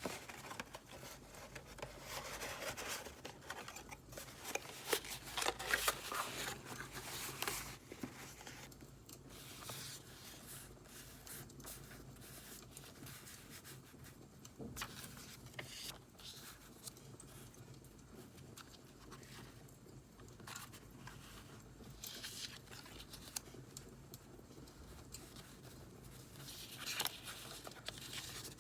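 Paper and journaling supplies being handled close up: rustling, scraping and snipping, busiest over the first several seconds and again near the end, with small scattered crackles of a wood fire behind.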